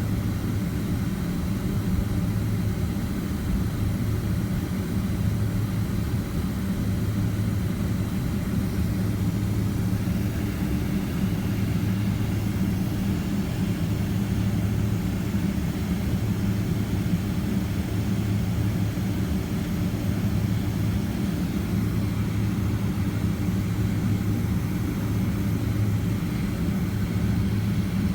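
Steady low hum of a Boeing 767-300ER's twin jet engines heard from inside the passenger cabin, running at an even low thrust with no spool-up.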